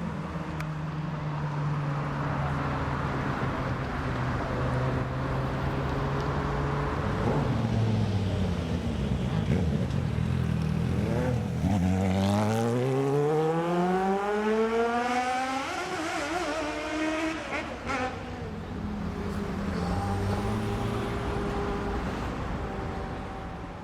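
Inline-four sport motorcycle engine running steadily, then accelerating hard about twelve seconds in, its pitch climbing steeply for several seconds before falling away; an engine runs steadily again near the end.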